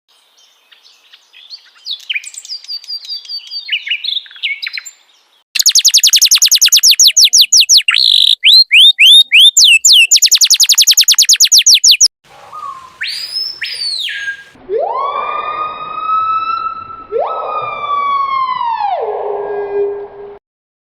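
Several different bird calls cut one after another. First comes fast, high twittering, then a long run of loud, rapid chirps at about seven a second. After that, a short arched note and two long calls, each rising and then falling in pitch.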